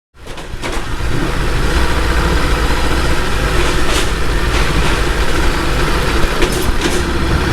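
Ducati Multistrada V2S V-twin engine running steadily, cutting in suddenly about a tenth of a second in, with a few short clicks or knocks over it.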